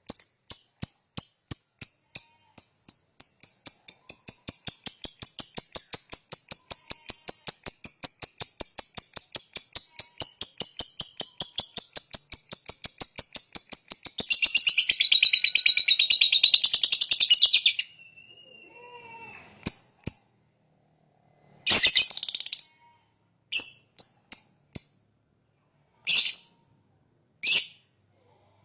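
Lovebird calling: a fast run of sharp, high chirps that speeds up into a long, unbroken chatter, the long 'ngekek' prized by lovebird keepers. The chatter cuts off suddenly about two-thirds of the way through, followed by a few separate short chirps.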